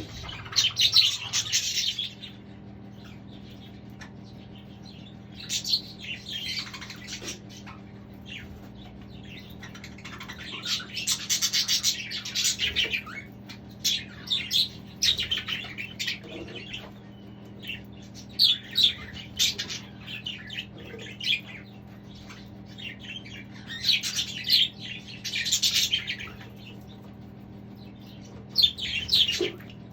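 A flock of budgerigars chirping and chattering in short, repeated bursts every few seconds, over a steady low hum.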